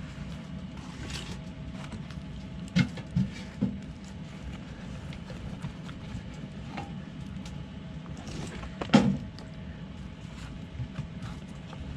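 Toyota Tacoma pickup's engine idling steadily, a low hum. Three sharp knocks come about three seconds in, and a louder single clunk about nine seconds in.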